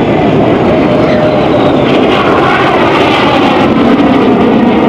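Jet noise from the Red Arrows' BAE Hawk T1 jets of the synchro pair flying their carousel: a loud, steady rush of jet engines with a faint falling whine.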